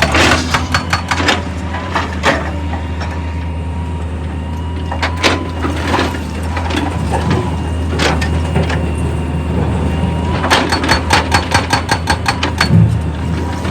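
Excavator's diesel engine running steadily, with scattered sharp clattering knocks and, about ten seconds in, a quick run of knocks at about seven a second.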